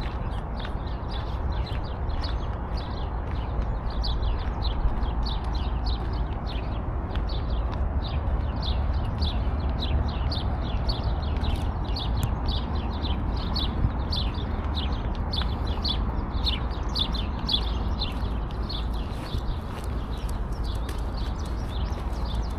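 Birds chirping: a steady stream of short, high chirps, several a second, over a steady low rumble.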